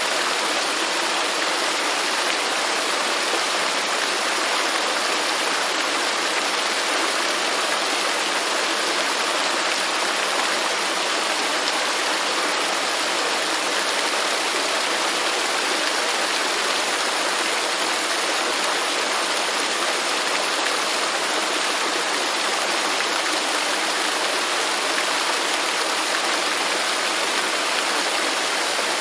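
Waterfall: falling water rushing steadily, without change.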